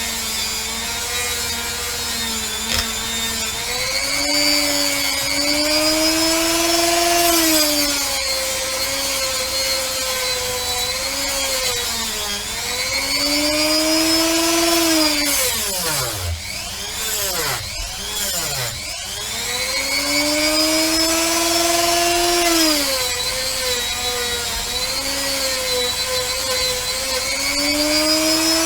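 Handheld rotary tool with an 80-grit sanding attachment grinding a pewter cast. The motor whine rises and falls in pitch as the bit is pressed into the metal and eased off, over a rasping hiss. About halfway through the motor slows sharply twice and then speeds back up.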